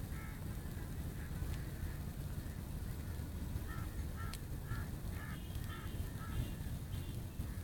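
Short bird calls repeated about twice a second, most of them in the second half, over a steady low rumble.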